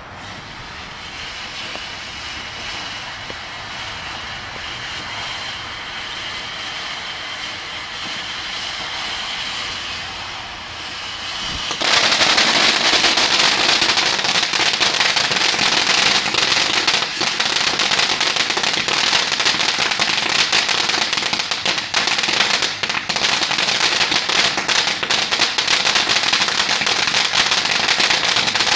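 A firework hissing steadily and slowly growing louder, then, about twelve seconds in, suddenly bursting into a loud, dense crackling that goes on without a break.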